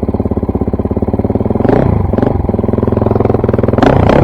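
KTM dirt bike engine idling with an even, rapid pulse, the sound turning rougher and louder near the end.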